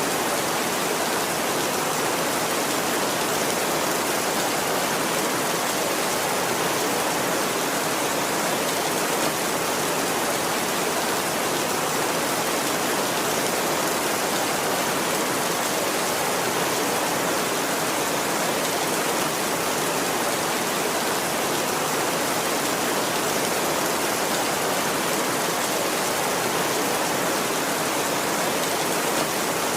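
Steady heavy rainfall, an even hiss of many drops with no thunder.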